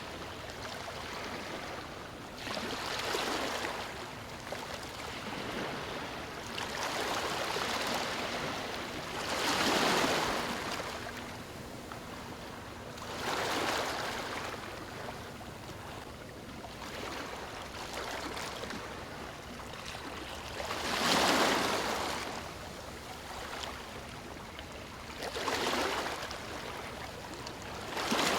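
Waves breaking on a stony shore, each one a rushing hiss that swells and fades, arriving every three to four seconds over a steady wash of water. Two of the surges, about a third and three quarters of the way through, are louder than the rest.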